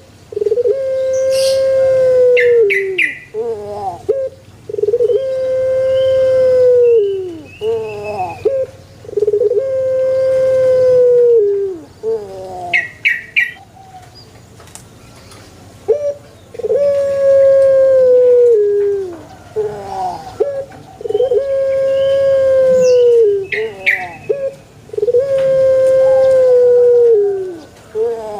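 Male puter (Barbary dove) cooing: a series of long, drawn-out coos of about two seconds each, repeated roughly every four seconds, each introduced by a few short notes. Brief high chirps of a small bird break in three or four times.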